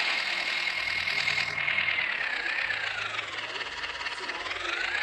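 Tractor engine running, with a high whine that sinks in pitch about three seconds in and climbs back near the end, as the engine speed drops and recovers.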